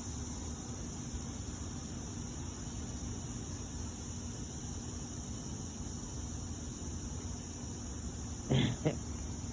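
Steady, even high-pitched insect chorus from crickets, with a short, louder sound near the end.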